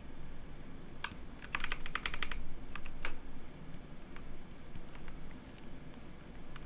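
Computer keyboard and mouse clicks: scattered single taps, with a quick run of clicks about one and a half to two and a half seconds in, over a low steady hum.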